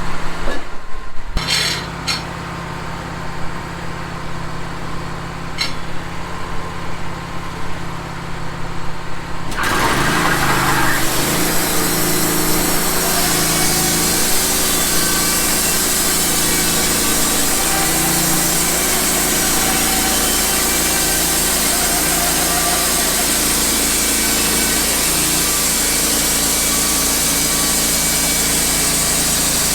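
Wood-Mizer band sawmill's engine running steadily with a few clicks, then, about ten seconds in, the band blade enters the pine log and a loud, steady cutting noise takes over.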